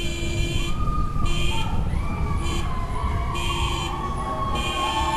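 A siren wailing, its pitch slowly rising and falling, over a steady low rumble of wind and street noise, with shorter high tones coming and going.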